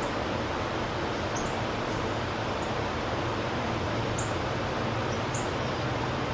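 Small wild birds giving short, very high-pitched chirps every second or so over a steady hiss and a low hum.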